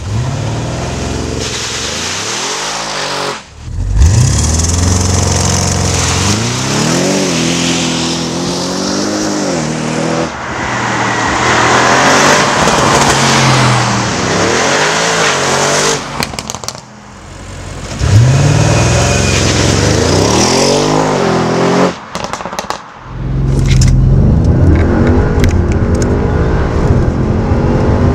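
Audi RS7 Performance's twin-turbo V8 revving and accelerating hard, its pitch climbing and then dropping back at each gear change, in several takes with a few abrupt breaks between them. Near the end it pulls strongly at a steady climb as the car gathers speed.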